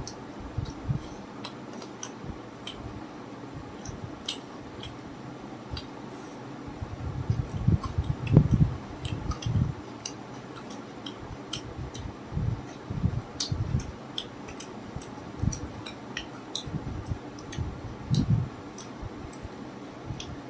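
People eating chicken dry fry: chewing with wet, squishy mouth sounds and many small crisp clicks, loudest about eight seconds in.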